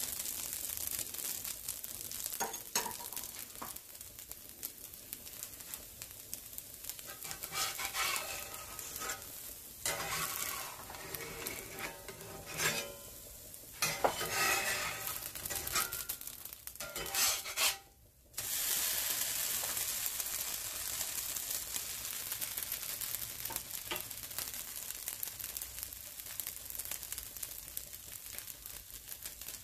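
Dosa batter sizzling steadily in an oiled cast-iron skillet. A few metallic clicks and scrapes, like a spoon or spatula against the pan, come about a third of the way in, and the sizzle cuts out briefly near the middle.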